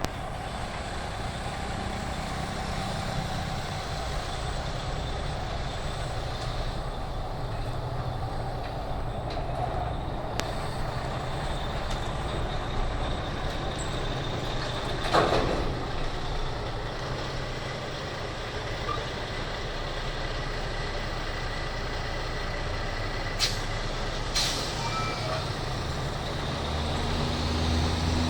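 A container truck's engine running steadily with a low rumble, with a short hiss about halfway through and two sharp clicks later on.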